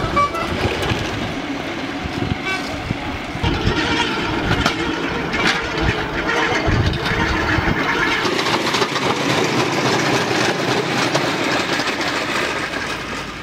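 Rail bike's wheels rolling along the railway track with a continuous rattling clatter, falling away at the very end.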